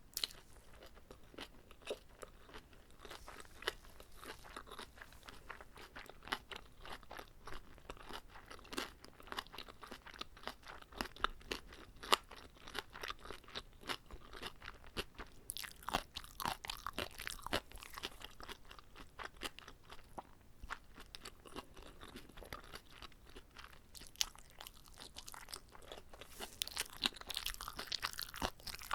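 Close-miked chewing of a whole gimbap roll: a steady run of small, moist crunches and clicks as the rice, seaweed and fillings are chewed.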